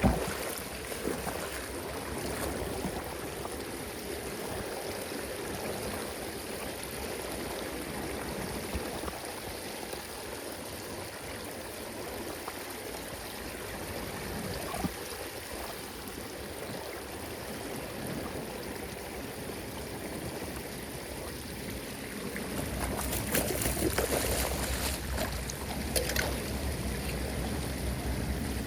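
Floodwater flowing steadily down a cleared street drain. Near the end it gets louder, with a low rumble and a few sharp clicks.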